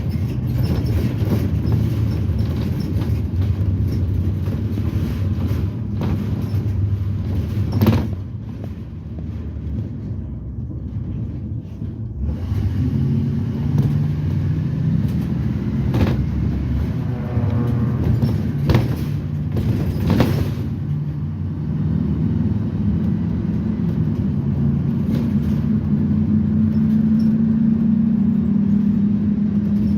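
Propane-fuelled GM Vortec V8 of a Blue Bird Vision school bus heard from inside the bus while driving. The engine eases off for a few seconds about a third of the way in, then pulls again with its pitch climbing slowly toward the end, and a handful of sharp rattles and knocks come from the body.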